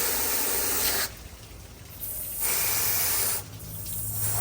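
Running water rinsing black grit slurry from a rock tumbler's load of opal rough. It comes in spells: on for about the first second, off, on again for about a second, then back on near the end.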